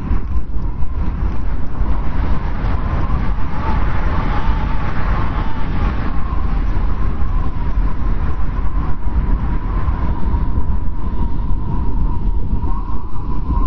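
Strong blizzard wind blowing steadily: a deep rumble with a thin, wavering whistle over it.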